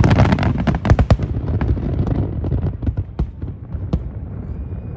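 Aerial fireworks bursting in a dense, rapid barrage of bangs and crackles for about the first second, then thinning to scattered pops that die away.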